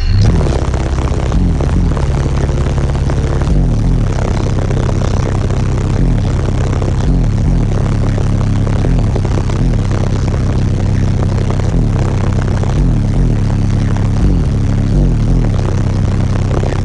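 A truck's car-audio system of eight 12-inch subwoofers on 60,000 watts playing bass-heavy music very loud, with deep bass notes that repeatedly slide downward in pitch.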